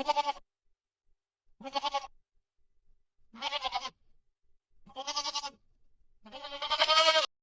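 An animal bleating: five wavering calls about a second and a half apart, the last one the longest and loudest, cutting off sharply.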